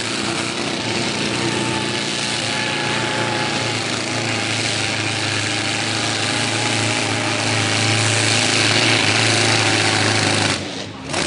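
Mini unlimited pulling tractor's engine running at a steady pitch, slowly growing a little louder, then cutting off abruptly near the end.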